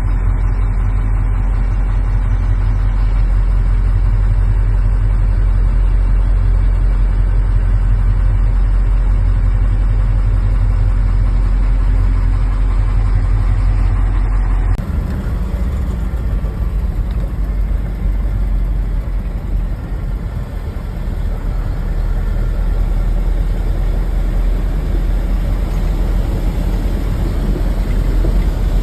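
A vehicle engine running steadily with a strong low rumble. The sound changes abruptly about halfway through, to a rougher, more uneven rumble.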